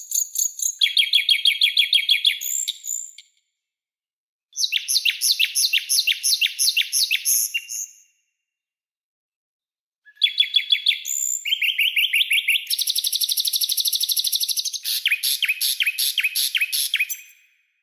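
Songbird song-tutor recording of sharp, rapid-fire repeated notes: three bursts of quickly repeated high notes, the last and longest shifting pattern partway through, each ending in abrupt dead silence, as in an edited recording.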